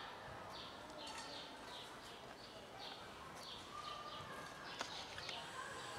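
Small bird chirping over and over, short high falling chirps about two or three a second, faint against low background noise.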